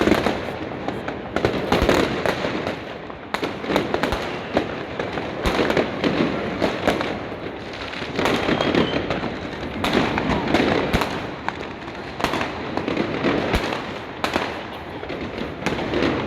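Fireworks and firecrackers going off without pause, many sharp bangs and crackles at irregular intervals over a steady din of distant explosions.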